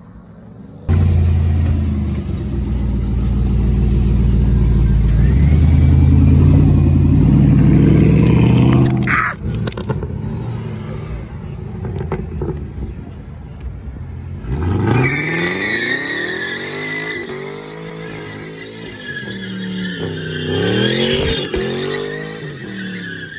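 A vehicle engine comes in loudly about a second in and runs hard for several seconds. Later it is revved up and down again and again.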